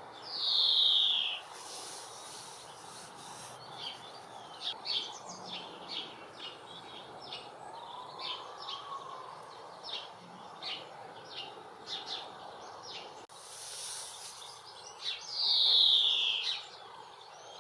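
Female European greenfinch giving its drawn-out call, sliding down in pitch, twice: once at the start and again about fifteen seconds later. Faint short chirps come in between.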